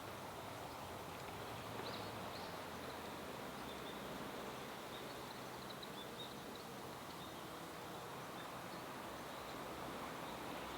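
Faint, short, high bird calls, a couple near 2 seconds in and more scattered over the next few seconds, over a steady outdoor background hiss.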